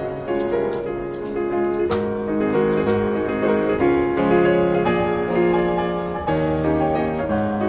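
Piano music playing, a run of held notes and chords changing every half second or so.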